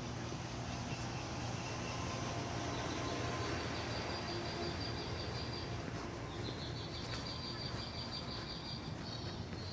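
Two long, high, rapid trills from an unseen night animal, which the uploader takes for a bird: one about three and a half seconds in, the next about six and a half seconds in. A steady low hum runs underneath.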